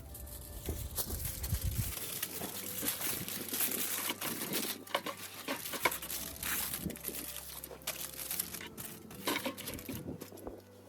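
Crinkling and rustling of packaging being handled and torn open, an irregular run of many small crackles.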